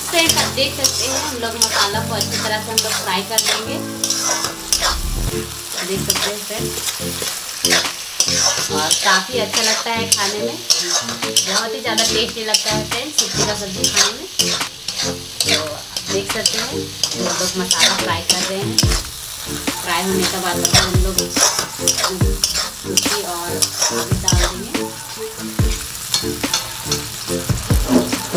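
Onion-tomato masala sizzling as it fries in an aluminium kadhai. A spatula is stirred through it, scraping and clicking against the pan over and over.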